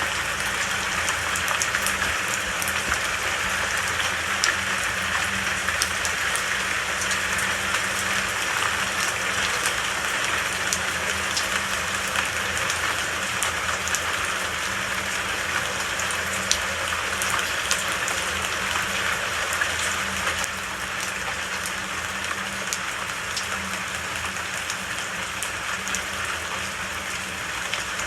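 Steady rain falling in a forest, a constant hiss with scattered sharp ticks of individual drops; it eases slightly about two-thirds of the way through.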